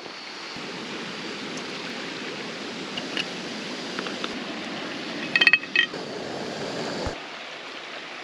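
Morning camp coffee being made: a steady rushing hiss cuts off suddenly about seven seconds in. A few ringing clinks of cup and pot come just before it stops.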